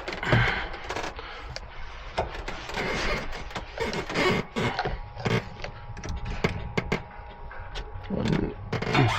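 Irregular knocks, clicks and scraping of hard objects being handled and moved about.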